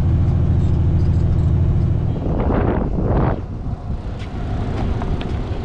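Heavy truck's diesel engine idling steadily; about two seconds in the steady note drops away and two short hisses of air follow, then a lower rumble.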